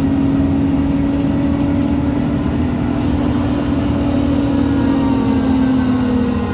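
Drivetrain whine from a MAN Lions City G articulated bus's differential and gearbox: one steady, prominent tone over the engine's low running. The pitch sinks slightly near the end.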